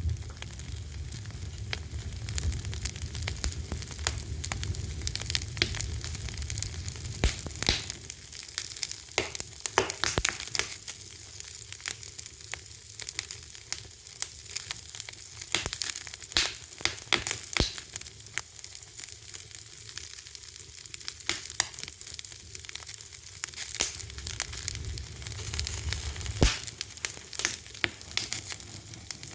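Wood fire crackling: dense, irregular sharp pops and snaps over a steady hiss, with a low rumble of flame now and then.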